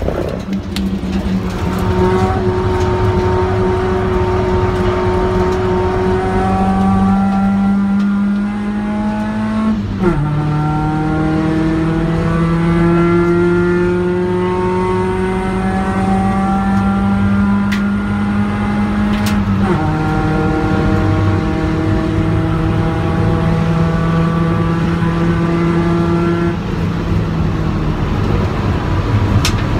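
A car engine heard from inside the cabin, pulling hard on track. Its note climbs steadily through each gear and drops sharply at upshifts about 10 and 20 seconds in. Near the end the engine note fades as the driver lifts off.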